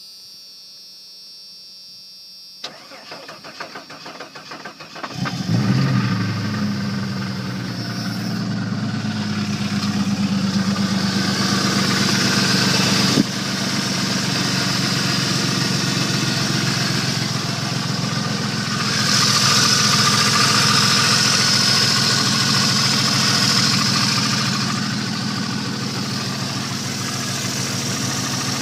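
1989 Jeep Cherokee engine being started: a steady hum for a couple of seconds, then the starter cranks for about two and a half seconds before the engine catches and runs. It keeps running with the knocking of a bad connecting-rod bearing (rod knock).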